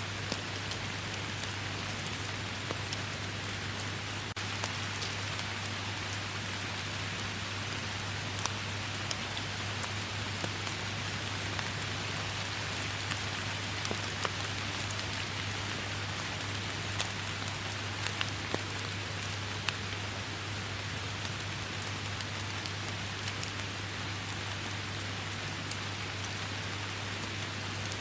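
Steady rain falling, an even hiss with scattered sharp drips of drops landing close by.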